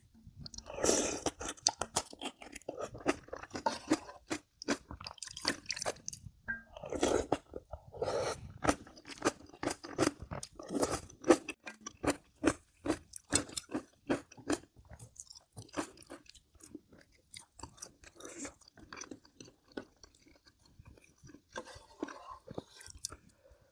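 A person chewing food with crunching, crackling bites, densest through the first half, then thinning to sparser chewing sounds.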